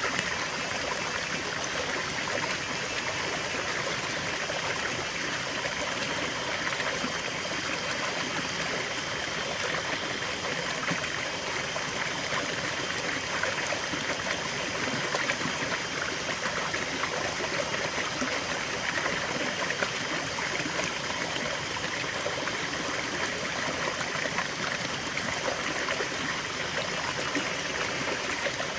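A small stream running and trickling, a steady, even rush of flowing water.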